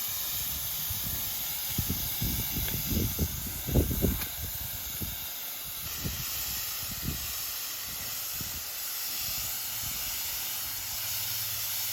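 Paint being sprayed onto an engine block: a steady hiss from the spray, with some low thumps between about two and four seconds in.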